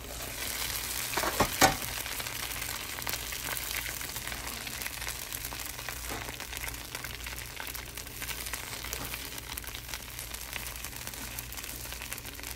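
Coconut-rice batter sizzling and crackling steadily in a hot khanom krok pan. A sharp metallic clank comes about a second and a half in, as the pan's metal lid is handled.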